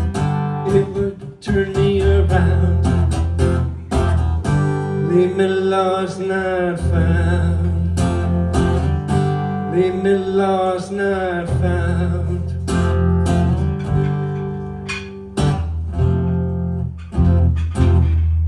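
Acoustic guitar strummed, with a voice singing long held notes twice in the middle, as a slow song draws to its close.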